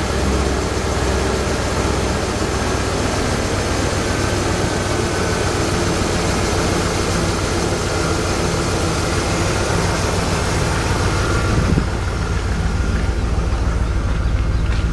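BMW E39 M5's 4.9-litre V8 idling steadily just after a cold start. About twelve seconds in, the sound changes and the low end turns more pulsing.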